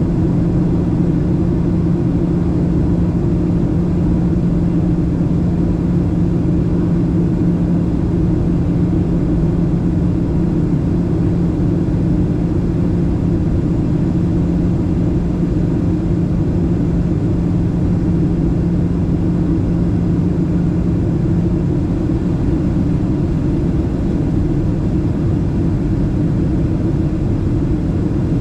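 Steady cabin rumble of a Boeing 737-700 airliner, with its CFM56-7B engines running and a steady low hum that fades out about 22 seconds in.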